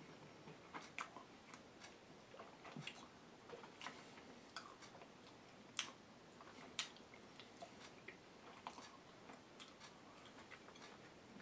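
Faint, irregular mouth clicks and smacks of a person chewing food, with two sharper clicks a little past halfway.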